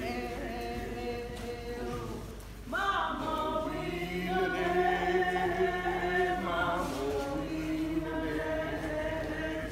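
A group of voices singing together without instruments, in long held notes. A new, louder phrase begins about three seconds in.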